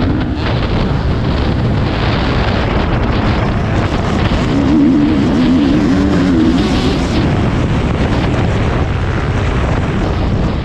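Motocross bike engine running hard, its pitch rising and falling with the throttle, under heavy wind rush on the helmet-mounted camera.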